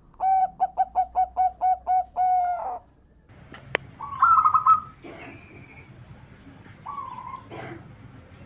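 Zebra dove (perkutut) cooing: a quick run of about eight short coo notes closing on a longer one. A sharp click follows, then a louder trilled call and a few fainter calls.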